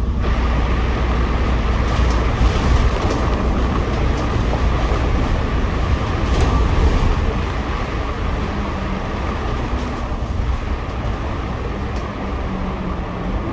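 Double-decker bus on the move, heard from inside on the upper deck: a steady low engine and road rumble with a hiss of tyre noise, easing slightly about halfway through.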